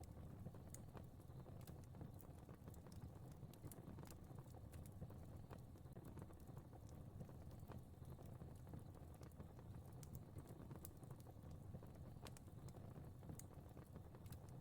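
Fireplace fire crackling faintly: a soft steady low rumble with irregular sharp pops and snaps scattered through it.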